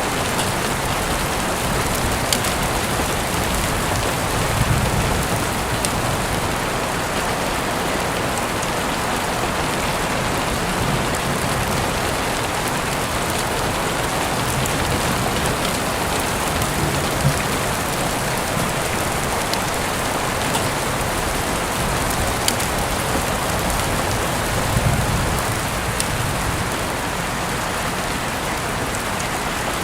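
Heavy rain falling steadily, an even hiss with scattered sharp drips and taps on hard surfaces.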